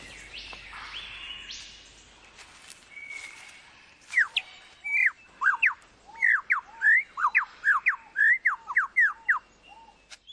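Superb lyrebird singing: a few rising whistled glides, then from about four seconds in a loud run of quick sweeping notes, roughly two to three a second.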